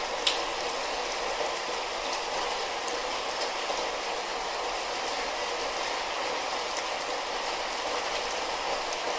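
Light rain falling steadily, a constant patter with scattered drip ticks, and one sharper drip about a third of a second in.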